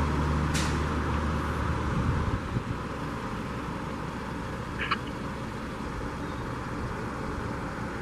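Vehicle engine running amid steady road noise, its low hum fading away about two seconds in, with a short high chirp about five seconds in.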